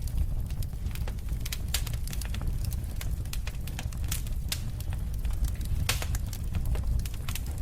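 Wood fire burning, with a steady low rumble under frequent irregular crackles and pops, a few sharper pops standing out.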